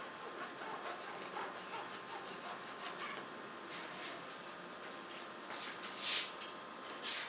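Paintbrush strokes rubbing across a canvas or paper: soft, irregular scrubbing strokes, with one louder stroke about six seconds in and another near the end.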